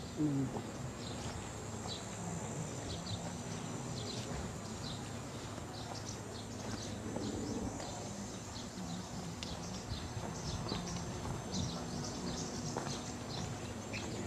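Outdoor ambience: birds chirping again and again in short, high, falling notes over a steady high drone and a low background hum.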